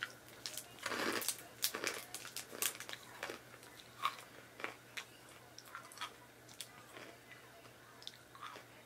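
A person biting into and chewing a Violet Crumble, a honeycomb toffee bar coated in chocolate. There is a loud crunchy bite about a second in, then a run of smaller crunches that thin out as the chewing goes on.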